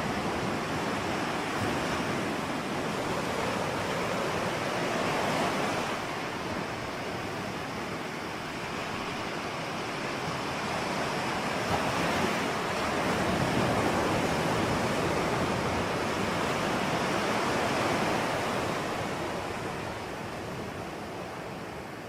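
Ocean surf: waves breaking and washing in a continuous rush that swells and eases over several seconds, with the loudest surge about two thirds of the way through.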